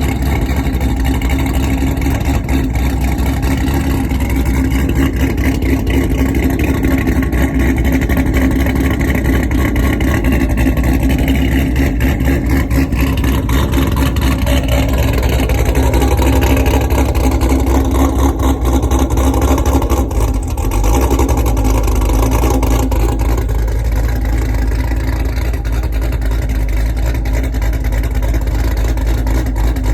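Chevrolet Caprice's L77 6.0-litre V8 with a Brian Tooley Racing stage 4 camshaft idling steadily after a cold start, its exhaust pulsing unevenly with the cam's lope; the sound dips briefly about twenty seconds in.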